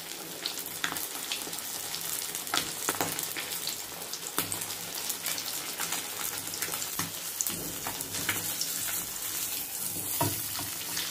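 Coated fish pieces frying in hot oil in a kadai: a steady sizzle with frequent crackling pops.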